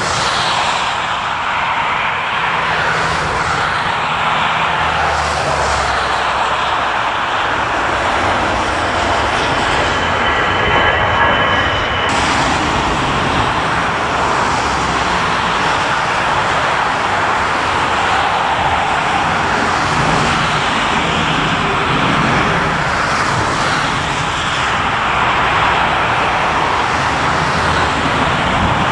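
Jet airliner's engines at takeoff power: a loud, steady noise that holds through, with a faint high whine about ten seconds in.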